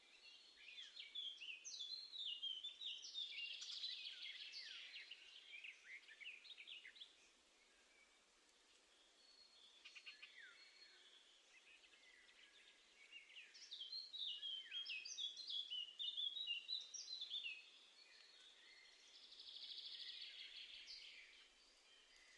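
Garden songbirds singing: fast runs of high, quick chirping notes in two long phrases several seconds apart, with a softer burst near the end.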